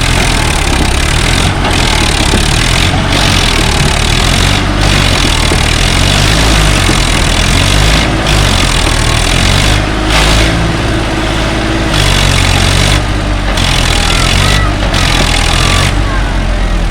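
Diesel engines of earth-moving machinery running loud and steady, with a broad hiss over the engine hum that drops out briefly every second or two.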